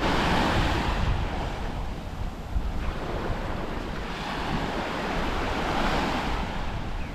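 Caribbean surf washing up the beach. It swells and fades twice: one wash at the start and another from about four to six and a half seconds in. Wind rumbles on the microphone throughout.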